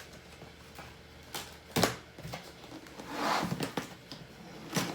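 Items being handled while unpacking a box of cookware: a few sharp knocks and clicks, one louder than the rest about two seconds in, and a short rustle of packing material.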